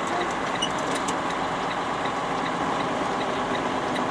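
Steady engine and road noise inside a moving semi-truck's cab, with a faint high ticking about three times a second.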